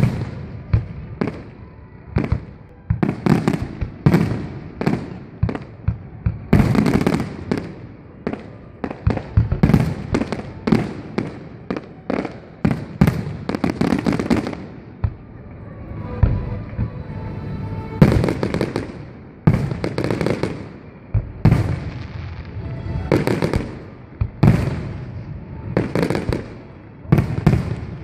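Aerial fireworks shells bursting in rapid succession, one sharp boom after another with crackle between them, easing off briefly about halfway through before the barrage resumes.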